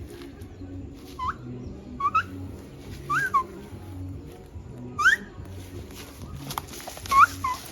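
A string of short whistled notes, each sliding upward, some in pairs, coming every second or two, with the loudest about five and seven seconds in.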